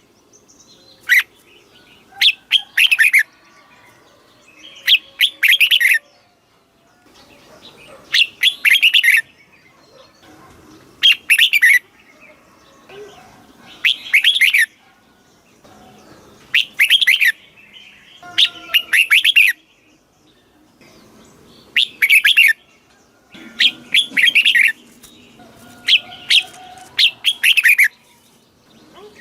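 Red-whiskered bulbul singing short, loud phrases of quick descending notes, one phrase every two to three seconds. This is the kind of song played to caged bulbuls to teach young birds or get them singing.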